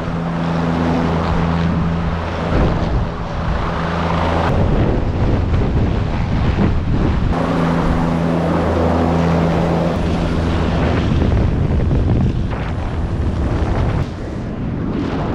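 Helicopter in flight: steady engine and rotor hum with heavy wind noise on the microphone, easing slightly near the end.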